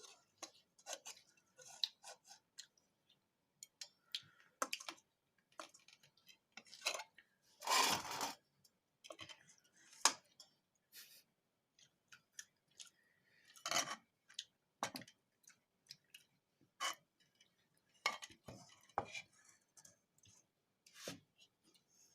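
Irregular clinks, taps and scrapes of dishes and utensils, with the longest and loudest scrape about eight seconds in.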